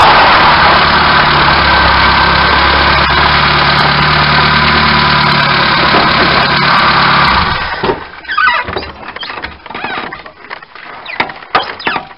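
Car engine and road noise heard from close to the front wheel inside the wheel arch, loud and steady as the car rolls to a stop. About seven seconds in the engine sound cuts off suddenly, leaving irregular knocks and rustling.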